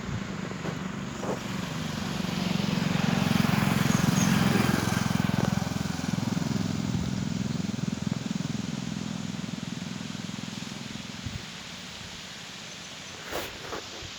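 An engine-driven vehicle passing by: its low engine drone swells to its loudest about four seconds in, then drops in pitch and fades away. A few short clicks or rustles follow near the end.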